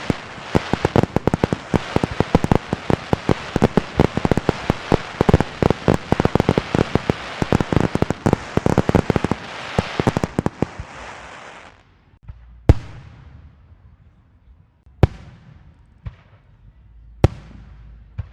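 A string of firecrackers going off in a rapid, dense run of pops for about eleven seconds, then dying away. After that, four single loud bangs go off a second or two apart, each trailing a short echo.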